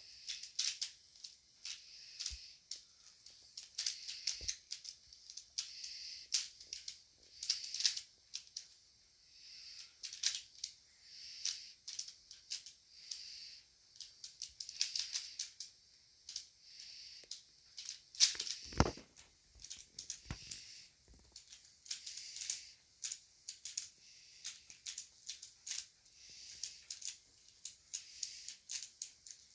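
Plastic pyramid puzzle cubes (Pyraminx-type) being twisted rapidly, giving a fast, irregular clicking. There is one louder knock about nineteen seconds in.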